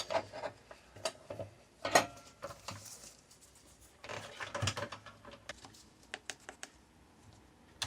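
Parts and tools being handled and set down on a workbench: a string of irregular light clicks and knocks, the loudest about two seconds in, with a denser cluster around four to five seconds in.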